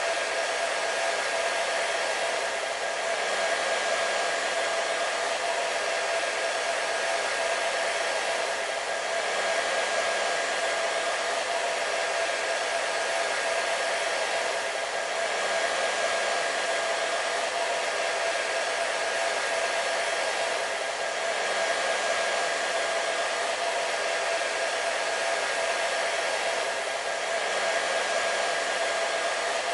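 Hair dryer running continuously: a steady rushing of air with a constant whine from the motor and fan, swelling slightly about every six seconds.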